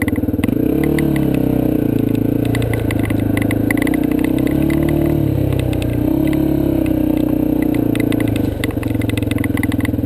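Yamaha TT-R230 dirt bike's single-cylinder four-stroke engine revving up and down in waves as the bike is ridden, over a rattling clatter. It drops back to a steady idle near the end.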